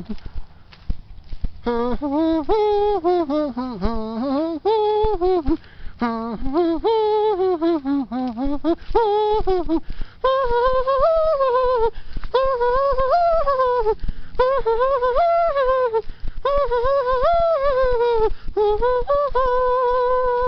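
A person's wordless vocalising, a humming or singing voice sliding up and down in pitch in short phrases with brief breaks between them.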